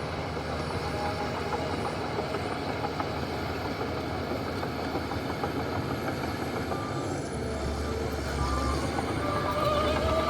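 Heavy diesel earth-moving machinery working: an engine running steadily under continuous metallic rattling and clanking, with short high squeals coming and going in the second half and the engine growing louder near the end.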